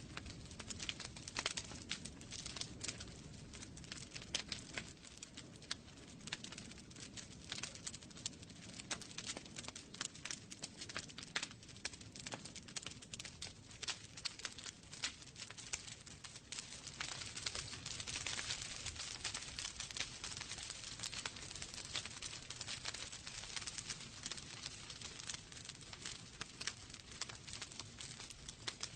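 Wood fire burning in a fireplace, crackling steadily with many small sharp pops and snaps over a soft hiss.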